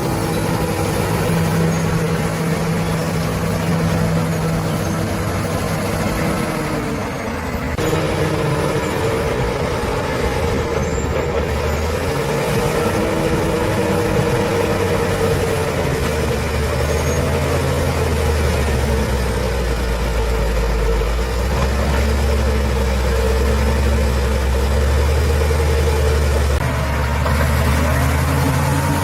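Heavy diesel engine of a bulldozer running at work, its note rising and falling as the load changes, with a heavier low rumble through the second half.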